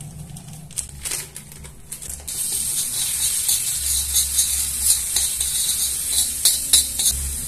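Minced garlic and spices frying in hot oil in a wok, stirred with a spoon that scrapes and clicks against the metal. The sizzle comes up about two seconds in and keeps going, with the scrapes of the spoon through it.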